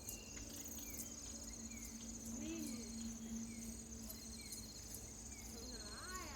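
Insects trilling steadily, like crickets at dusk, with a scatter of short rising-and-falling animal calls, the most prominent one near the end.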